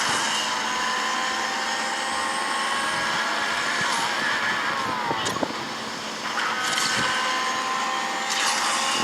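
A motor running steadily with a hiss and a thin whine, the whine dipping in pitch and the level sagging briefly around six seconds in before picking up again.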